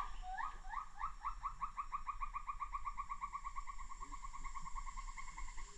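Bornean gibbon great call: a run of rising whoops that start slowly and quicken to about six or seven a second, then sink slightly in pitch and fade out near the end.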